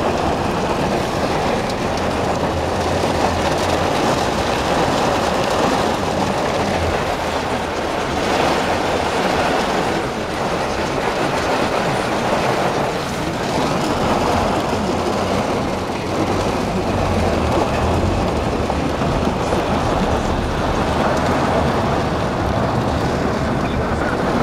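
Heavy downpour drumming on a taxi, heard from inside the cab, with the tyres running through standing floodwater on the road. It makes a loud, steady wash of noise with no breaks.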